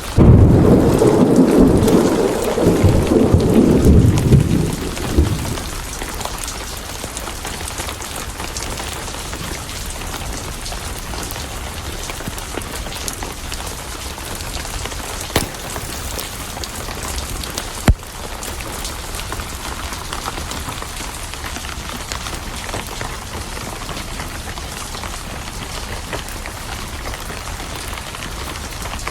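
Steady rain with a peal of thunder right at the start that rumbles loudly for about five seconds before dying away. Then the rain goes on evenly, with two sharp pops about halfway through.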